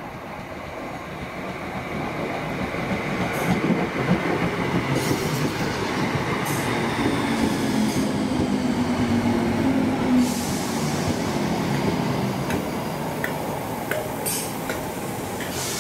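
A train running past on the line, growing louder over the first few seconds and staying loud, with a few sharp clicks from the wheels along the way.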